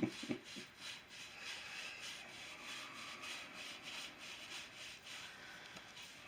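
Faint, repeated rubbing strokes on the wooden walking stick, about two a second, as its carved top is worked by hand.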